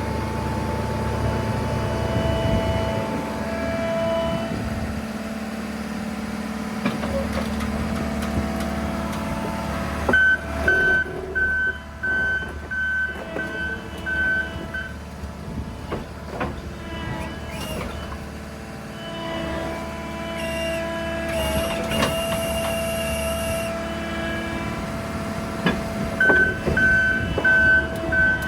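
New Holland C362 skid steer's diesel engine running under load, with its backup alarm beeping about twice a second in two spells, about a third of the way in and again near the end. Scattered metallic clanks and knocks as the forks work.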